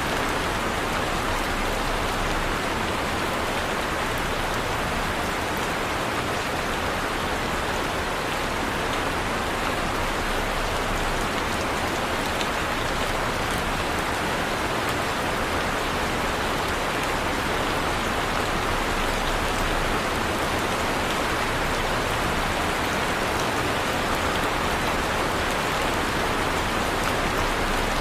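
Heavy rain falling steadily, an even wash of pattering drops with no breaks or thunder.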